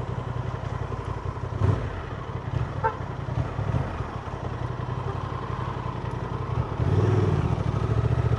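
Honda Transalp motorcycle's twin-cylinder engine running as the bike rides along, with a couple of light knocks; about seven seconds in the engine gets louder.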